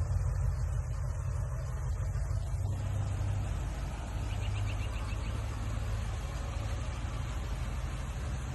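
Truck engine running steadily, a low even rumble.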